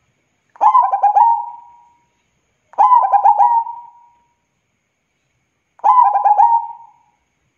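Zebra dove (perkutut) singing its cooing song. Three phrases of quick, staccato coo notes, each about a second long and a couple of seconds apart.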